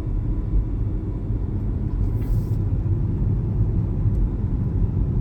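Car driving on a road, heard from inside the cabin: a steady low rumble of engine and road noise.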